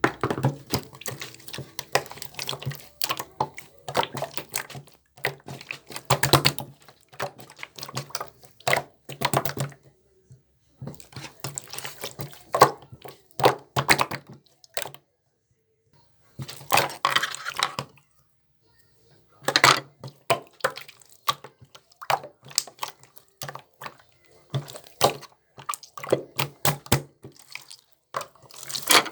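Water splashing and dripping in irregular bursts of small clicks and splashes, broken by a few short pauses.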